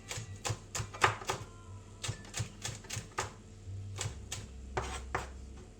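Knife chopping red and green chillies on a chopping board: a run of sharp, uneven taps, two to four a second, with short pauses between runs.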